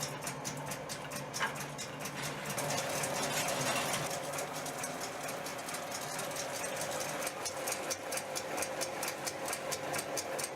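Ceetec P40 spray coating machine with rotating rubbing-in brush running: a steady motor hum with rapid, even clicking.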